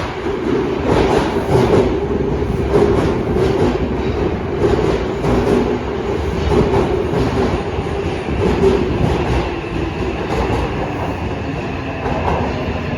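Yokohama Subway Blue Line train 3481F running through the station without stopping: a loud steady rumble and drone with repeated clacks of wheels over rail joints. The uploader flags the run for an abnormal noise.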